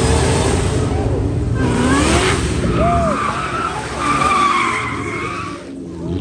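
A car pulling away hard, its engine revving in rising surges while the tyres squeal for a couple of seconds in the middle.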